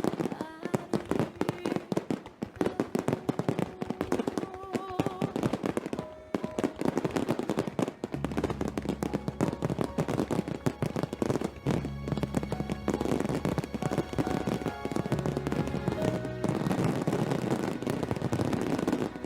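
Fireworks grand finale: many shells bursting and crackling in a dense, rapid barrage. Music with a voice plays along, its steady bass line coming in about eight seconds in.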